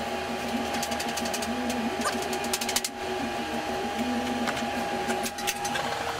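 Heavy steel welding-table top being slid and shifted across a steel table: metal scraping with clusters of clinks, over a steady hum.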